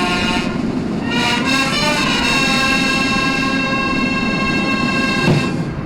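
Military brass fanfare: long held brass notes that step to a new pitch a few times.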